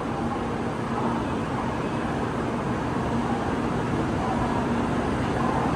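Steady low rumble of a Shinkansen station platform with a faint steady hum, a train standing or moving at the platform.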